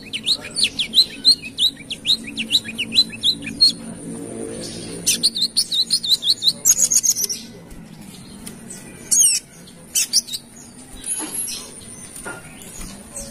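A sunbird (coconut sunbird, 'kolibri kelapa') chirping in two fast runs of sharp, high, falling notes, then a few scattered chirps near the end. It is a loud, busy call of the kind used as a lure for sunbirds.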